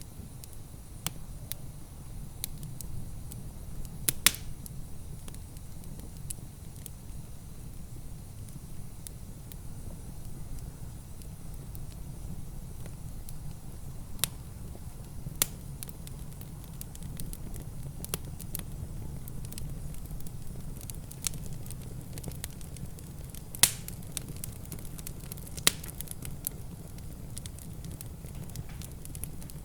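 Wood fire in a fireplace crackling, with scattered sharp pops, the loudest about four seconds in and twice near the end, over a steady low rumble.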